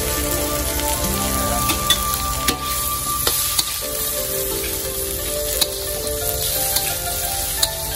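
Pork belly cubes sizzling in hot oil in a wok while being stir-fried, with a metal spatula clicking and scraping against the pan now and then.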